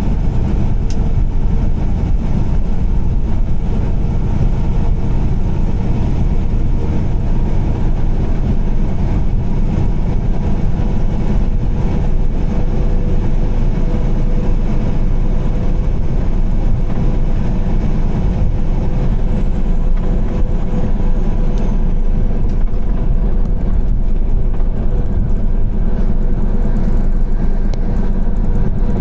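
Car driving along a highway in heavy rain: a steady low rumble of engine and tyre noise on the wet road, unchanging throughout.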